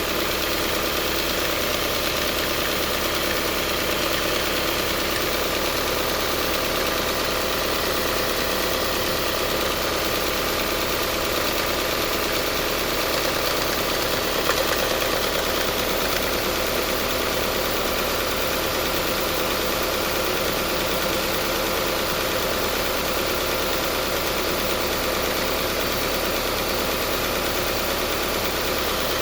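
Subaru Forester's CB18 1.8-litre turbocharged flat-four idling warm with a loud abnormal noise and a constant tappet-like ticking that does not go away, which the owner takes as a sign that the engine is finished.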